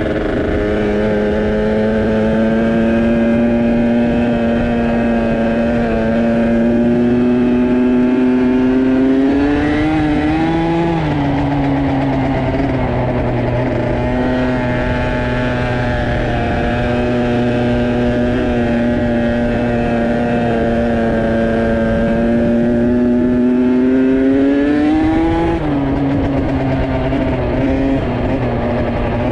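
Dirt bike engine running hard at near-steady throttle. Its pitch creeps slowly upward, then rises and falls off quickly twice, about ten seconds in and again near the end, as the revs come up and drop back.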